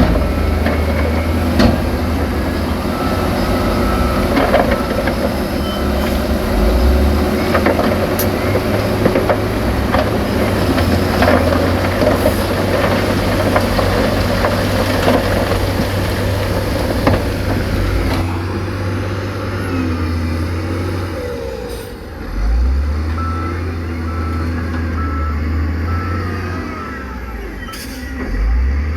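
Heavy diesel earthmoving machinery running under load, with scattered sharp knocks. A reversing alarm beeps in a run of evenly spaced beeps a few seconds in, and again near the end.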